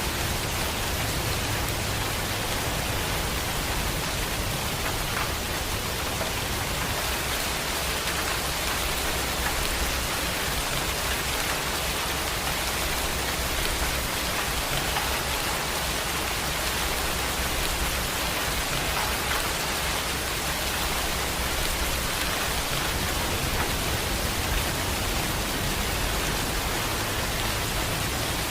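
Heavy rain falling steadily in an even hiss, with a low rumble underneath that swells in the first few seconds and again near the end.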